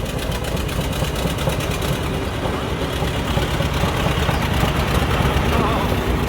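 Old Mack truck's engine running at low speed as the truck drives slowly past, a steady rumble that grows a little louder.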